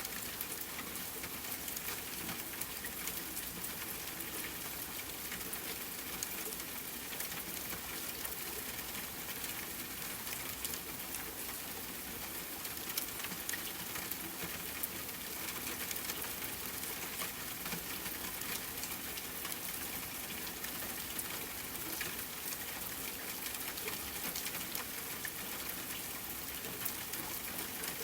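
Steady rain falling on the forest, with scattered small crackles and pops from a campfire.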